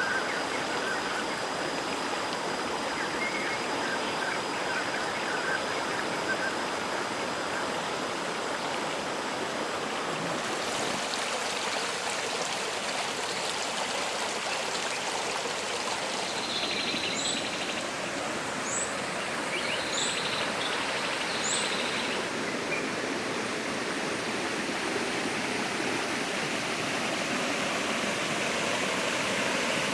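Waterfall and stream water rushing steadily over rocks. About halfway through, a bird gives a run of four short, high chirps over the water.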